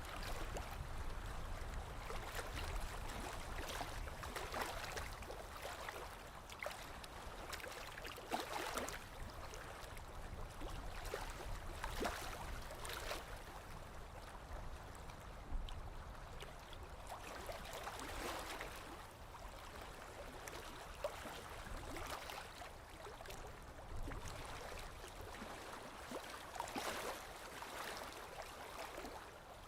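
Small waves lapping against a lakeshore: a steady wash of water with soft, irregular splashes every second or few.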